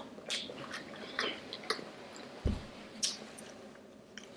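Close-miked chewing and mouth sounds of someone eating: scattered wet smacks and clicks, with a single low thump about two and a half seconds in.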